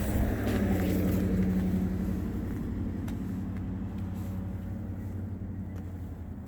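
A vehicle engine running with a steady low hum that slowly fades, with a few faint clicks.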